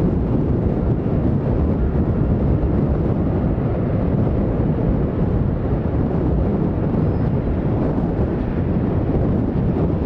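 Wind buffeting the microphone in strong gusts: a steady, loud, low rumble with no clear pitch.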